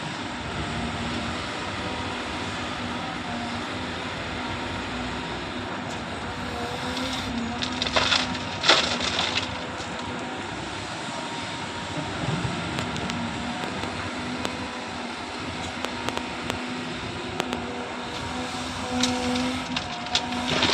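Cat 320 hydraulic excavator's diesel engine running steadily with a humming whine. About eight seconds in, and again near the end, there are loud bursts of clattering as the bucket scrapes and tips pebbly soil and stones.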